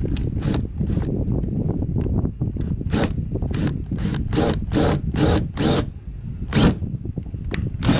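Power drill with a small bit boring a pilot hole, cutting in a series of short grinding bursts about two a second.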